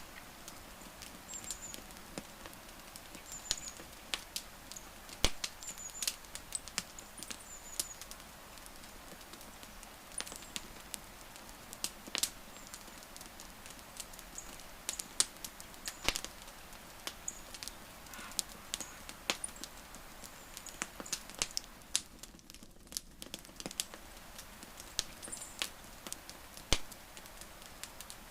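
Wood campfire crackling, with irregular sharp pops and snaps over a faint steady hiss, and a few short high chirps.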